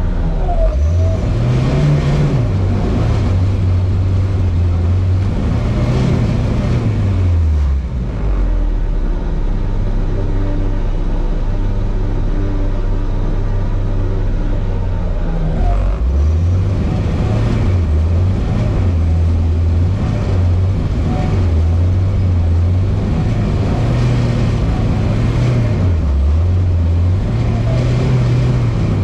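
Lada Niva engine driving hard, its pitch climbing and falling again and again as it accelerates and eases off, with a dip in revs about eight seconds in.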